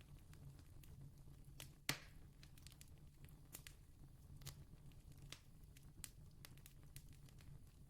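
Wood campfire crackling faintly, with scattered sharp pops and one louder pop about two seconds in, over a low steady hum.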